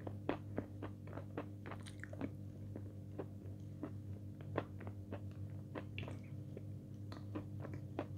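Close-miked wet chewing of a thick, creamy chocolate paste with the mouth closed: soft sticky mouth clicks and smacks, two or three a second, over a steady low hum.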